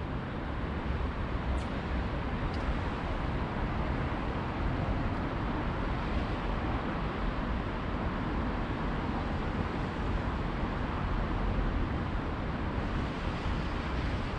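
Steady outdoor city background noise: a continuous rumble of distant traffic, heaviest in the low end, with no distinct events apart from a couple of faint ticks.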